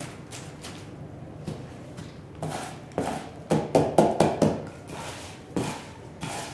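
A quick run of knocks and scrapes, densest and loudest about halfway through, with one more knock later and quieter scraping and rustling between.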